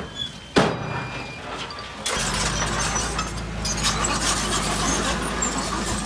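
Heavy construction machinery: a single sharp bang about half a second in, then from about two seconds in a louder, steady diesel engine running.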